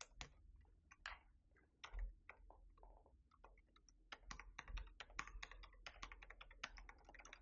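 Plastic keycaps clicking and clattering as they are picked out and pressed onto a Keychron V6 Max mechanical keyboard's numpad switches: faint, irregular clicks, scattered at first and coming thick and fast about halfway through.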